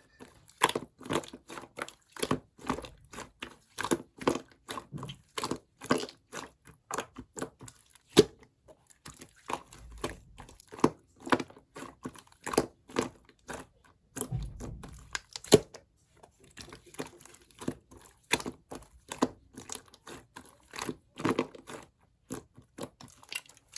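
Clear slime being squeezed and pressed by hand, giving an irregular run of sharp, wet clicks and pops, several a second.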